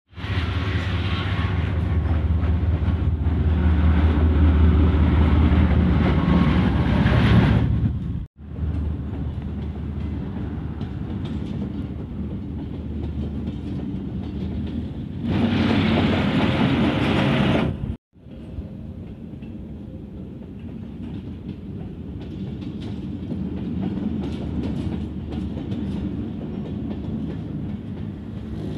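Passenger train rolling past on street-side track: a steady rumble and rattle of the coaches with wheels clicking over the rails, loudest with a deep hum in the first eight seconds. The sound cuts out briefly twice, about eight and eighteen seconds in, where clips are joined.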